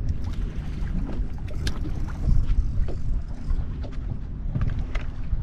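Wind buffeting the microphone and water slapping against a fishing boat's hull, a steady gusty low rumble, with a few short sharp sounds, around two seconds in and again near the end.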